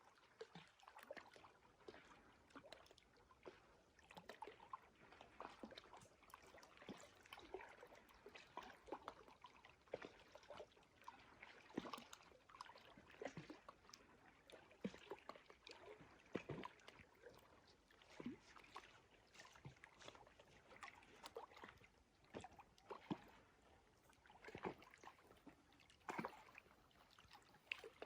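Faint trickling water: a steady run of small irregular gurgles and drips, with no steady rhythm.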